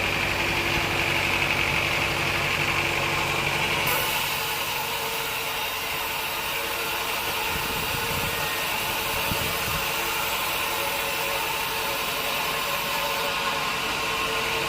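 Sawmill machinery running steadily with a constant mechanical drone and hum; the sound shifts abruptly about four seconds in.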